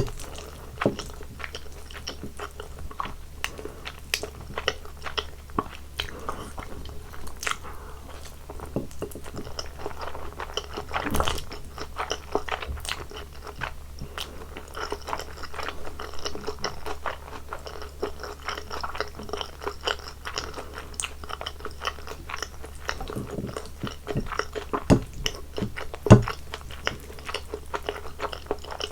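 Close-miked eating sounds: a person chewing, with many short wet clicks and smacks and a sharper smack about 26 seconds in, over a faint steady low hum.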